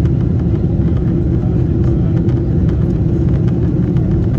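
Steady, loud low rumble of a Boeing 747-8 airliner's engines and airflow heard from inside the passenger cabin.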